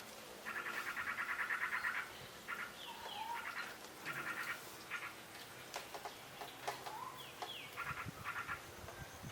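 Birds calling: repeated bouts of fast, rattling chatter, broken by short slurred whistled notes, some sliding down and some up.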